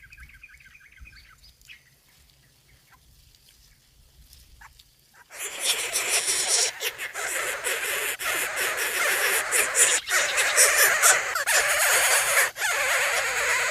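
Faint, rapid bird chirps at the start, then a loud, dense hiss that sets in suddenly about five seconds in and stays.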